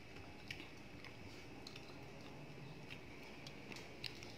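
Faint chewing of ripe mango, with a few soft, separate mouth clicks over a quiet steady background.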